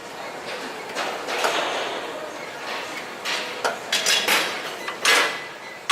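Irregular knocks and clatters of hard objects being handled, about seven in all, some trailing into short rushes of noise.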